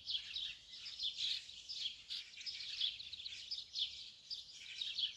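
Birds chirping: many quick, high, downward-sweeping chirps that overlap without pause.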